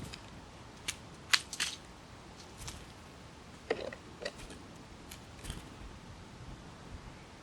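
A few sharp clicks and taps, loudest about a second and a half in, with a brief squeaky click near four seconds and fainter ticks after.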